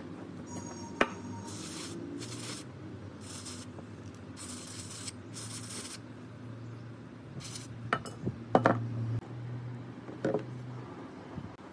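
Five or six short hissing spray bursts in the first half, then a few sharp metallic clinks and knocks of small parts being handled, the loudest about two-thirds of the way through.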